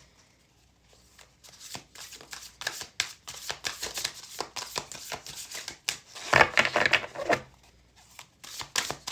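A tarot deck being shuffled by hand: a run of short card snaps and slides that starts about a second in, with a louder, denser flurry about six and a half seconds in.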